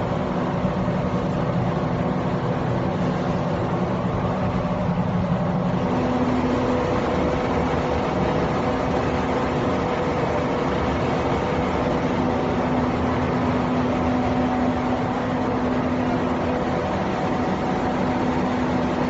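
Bioplastic film extruder running steadily: an even machine noise with a steady droning hum, and one lower layer of the hum dropping away about six seconds in.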